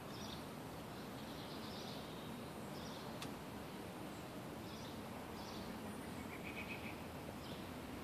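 Small birds chirping in short, scattered phrases over a steady outdoor background hiss, with a single faint click a little after three seconds.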